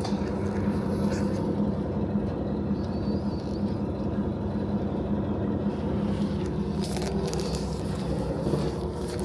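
KiHa 40 diesel railcar's engine running with a steady low hum, with a few light clicks about seven seconds in.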